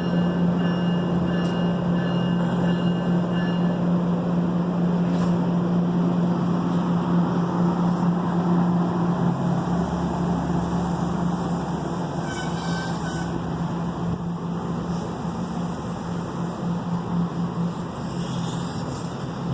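NJ Transit train running through the station: a steady low hum with a broad rolling rush of noise that eases slightly in the second half.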